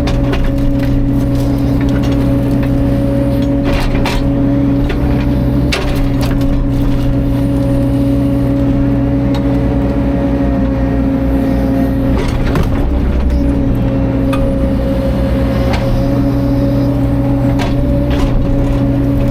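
Caterpillar 305.5 mini excavator's diesel engine running steadily under work, with scattered sharp cracks and knocks. The engine's pitch dips briefly about two-thirds of the way through.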